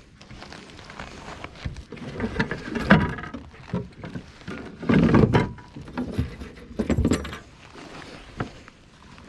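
Irregular knocks, thumps and rattling of fish and gear being handled aboard a kayak, with three heavier thumps about three, five and seven seconds in.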